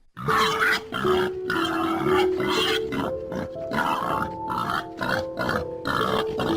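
An animal grunting over and over, about two to three short grunts a second, over background music with held notes.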